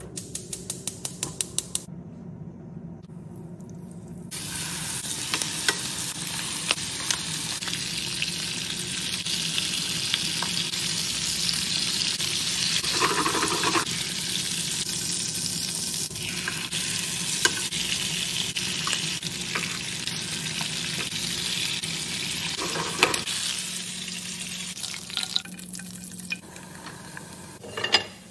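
Gas range burner igniter clicking rapidly for about two seconds as the knob is turned. From about four seconds in, chicken thighs sizzle steadily as they fry in oil in a skillet, the sizzle easing near the end.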